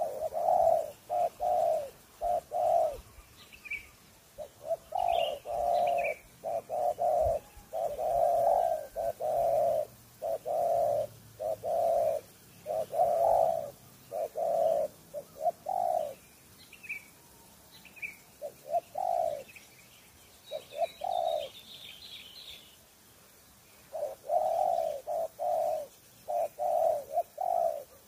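Spotted dove (tekukur) cooing in repeated phrases of low notes, with a few pauses. Short higher chirps from smaller birds come in between, notably about four seconds in and again around two-thirds through.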